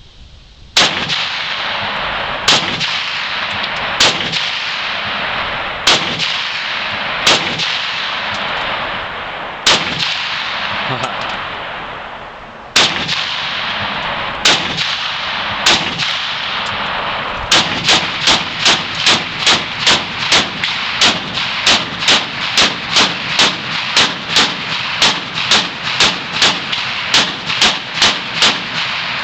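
Norinco SKS semi-automatic rifle firing 7.62x39 low-recoil training rounds: about nine single shots a second or more apart, then a fast string of shots about two to three a second from a little past halfway to near the end, the rifle cycling each round. A steady rushing noise runs under the shots.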